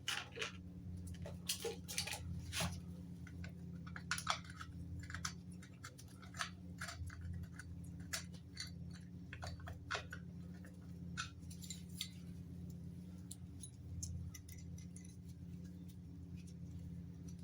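Small metal fasteners and hand tools clinking and clicking as nuts, screws and washers are handled and taken off an engine, in irregular scattered taps, busier in the first half. A steady low hum runs underneath.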